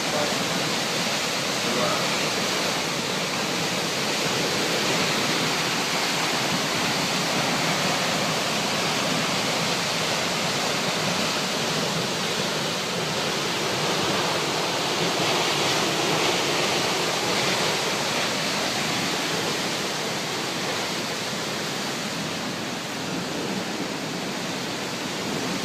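The Krimml Waterfalls, a large mountain waterfall, with water crashing down in a steady, unbroken rush.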